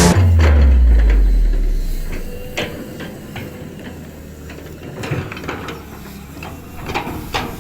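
A deep bass note from music dies away over the first two seconds. Then comes a low rumble with scattered, irregular metallic clicks and clanks from heavy machinery.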